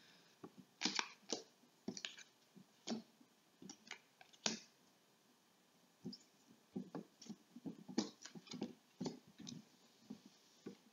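Irregular light clicks and taps with short scraping noises while the board is being cleared and set up for the next word. There is a brief lull about five seconds in.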